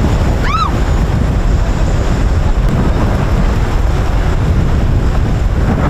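Wind buffeting the microphone: a steady, loud low rumble. A brief high cry rises and falls about half a second in.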